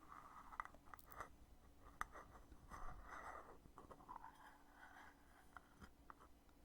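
Lid of a heavy foundation container being opened and closed, handled close up: several faint sharp clicks with scraping in between.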